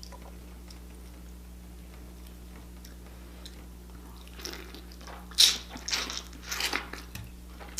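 Biting into a cooked crab leg close to the microphone: a run of sharp crunches and cracks of the shell, starting about four seconds in and lasting a few seconds.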